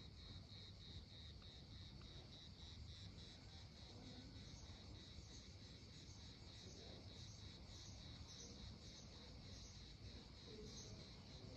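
Near silence outdoors, with faint insects chirping in a steady pulsing trill of about two pulses a second.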